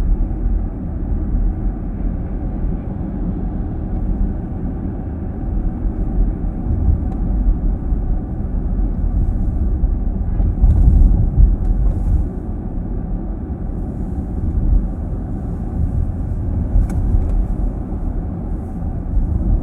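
Steady low road rumble of a car heard from inside its cabin while driving: tyre and engine noise, muffled by the closed car.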